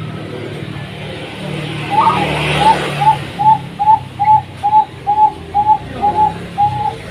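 Zebra dove (perkutut bangkok) singing: a run of about a dozen short, clipped cooing notes at a bit over two a second, starting about two seconds in. A steady low rumble runs underneath.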